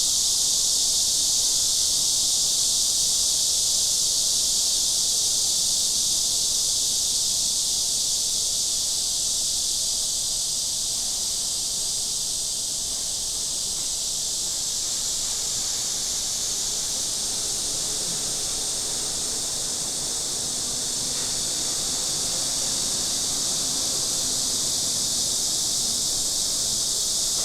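Steady, high-pitched chorus of insects droning without a break, with a faint low hum joining in during the second half.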